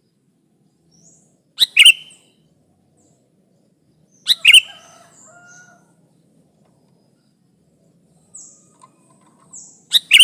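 Sooty-headed bulbul (kutilang) giving loud, short double-note calls three times, with fainter high, falling chirps between the last two.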